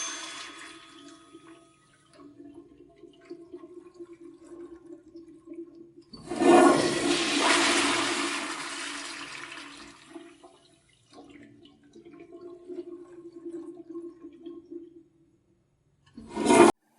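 Rushing water in two loud surges, each fading away over a few seconds, with a steady low hum between them and a short loud burst near the end.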